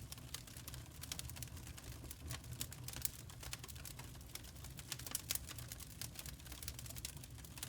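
Firewood burning: a dense, irregular crackle of small pops over a low, steady rumble of the fire.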